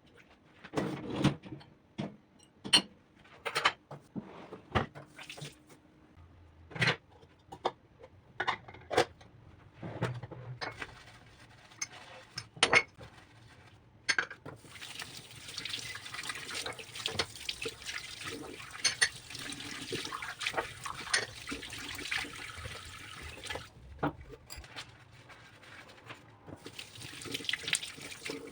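Kitchen tap running into a sink, with dishes and utensils clinking and knocking. The first half is mostly separate knocks and clinks; about halfway through the water runs steadily for around ten seconds, and runs again briefly near the end.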